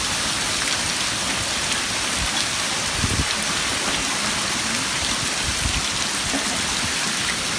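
Heavy rain and rushing flash-flood water, a steady loud hiss.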